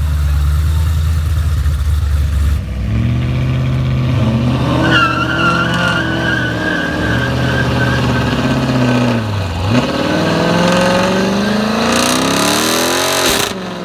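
A car engine revving hard several times, its pitch climbing and dropping, with a high wavering squeal over the middle few seconds. A last long rev climbs steadily and cuts off sharply near the end.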